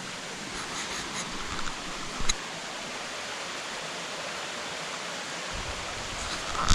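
Creek water rushing over rocks at a stream crossing, a steady hiss of moving water, with a single sharp knock about two seconds in.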